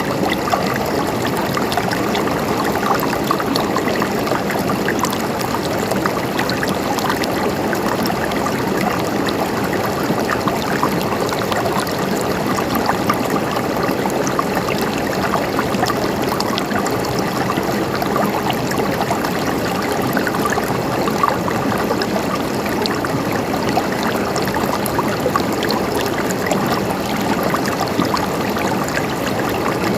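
River water flowing and splashing over rocks, a steady rushing with fine trickling detail.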